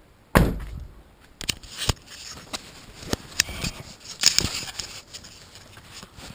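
Hand tools and parts being handled during mechanical work: a sharp knock about half a second in, then scattered clicks, taps and rustling.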